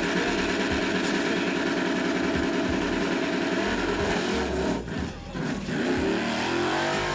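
Chevrolet S10 drag trucks' V8 engines held at high revs on the starting line, a steady loud note. About five seconds in the sound dips briefly, then the engine note rises as a truck launches down the strip.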